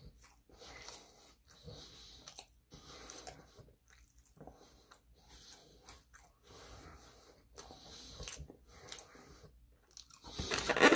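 A person chewing sushi close to the microphone: soft, wet chewing and mouth noises that come and go irregularly, with short pauses.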